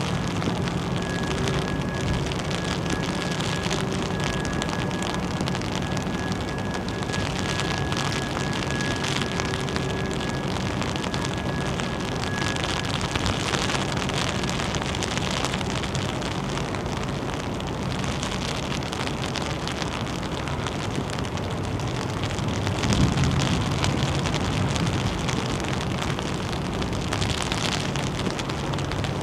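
Steady hiss of rain and wind, with a low hum of engines underneath and a faint high whine through the first half. A louder low rumble rises briefly about three quarters of the way through.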